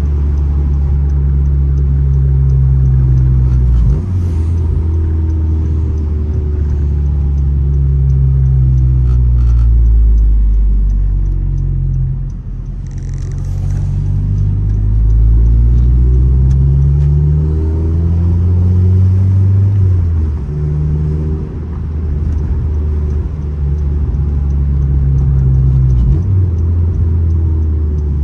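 9th-generation Honda Civic Si's 2.4-litre four-cylinder engine running through an aftermarket downpipe and exhaust, a loud, deep drone whose pitch climbs and falls several times as the revs change, with a few brief dips in level.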